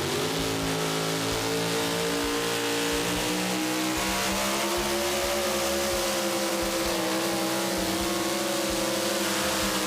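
Super modified pulling truck's engine running at high revs under heavy load, its pitch climbing slowly and then easing slightly near the end.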